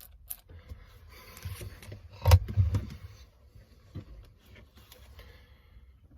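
Handling noises from working on a small RC car: light scrapes and rattles of small plastic parts, with one sharp knock a little over two seconds in.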